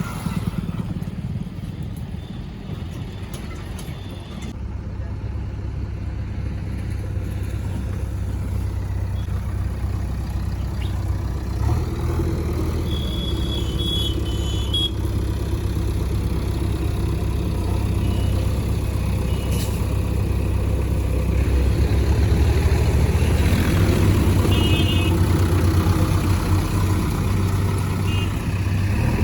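Heavy diesel engine of earthmoving and farm machinery running steadily, gradually growing louder, with two short bursts of high beeping.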